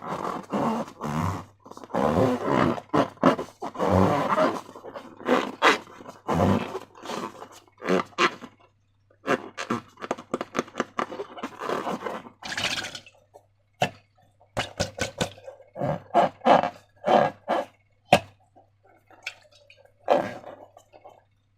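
Slime being squeezed and worked by hand: irregular squelches and sharp clicks, some long and bubbly, others short.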